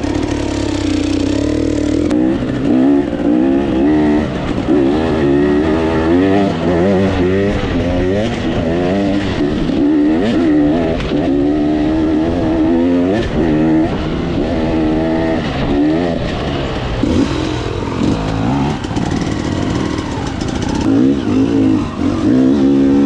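Dirt bike engine revving up and down as the throttle is worked, its pitch rising and falling many times with short pauses between bursts.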